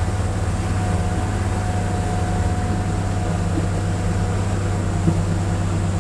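Amphibious tour vehicle's engine running steadily on the road, a constant low drone heard from on board.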